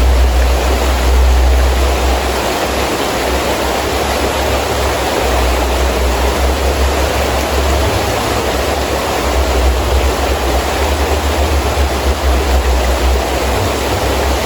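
Heavy rain falling steadily with gusting wind, a deep wind rumble swelling and easing every few seconds under the hiss of the rain.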